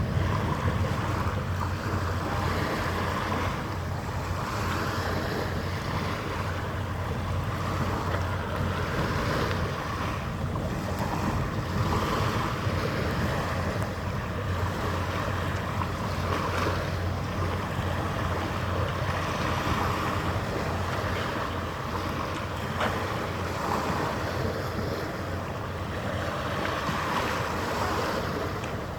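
Steady wind and harbour water noise with a constant low machinery hum underneath, typical of a large ship's engines running.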